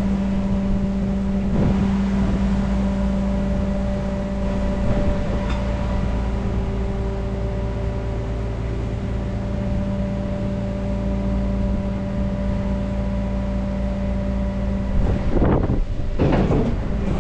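Idling truck engine giving a steady, unchanging hum.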